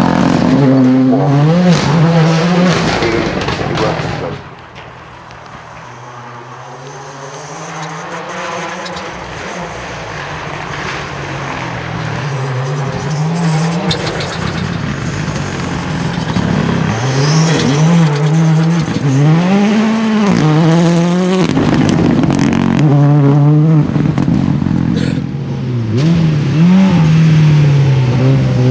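Rally car engine at full throttle, its pitch climbing and dropping repeatedly through the gears. Loud at the start, it falls away sharply about four seconds in, then builds again as a car approaches and stays loud, revving up and down through the gear changes.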